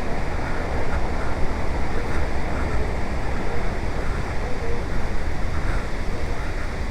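Devi's Fall waterfall in monsoon flood: a heavy volume of water pouring and rushing steadily, an even, dense noise.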